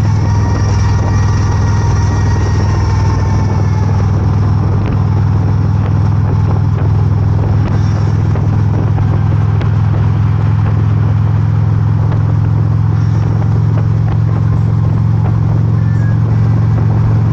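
Motorcycle running at a steady pace while being ridden: an even low engine note under a constant rush of noise.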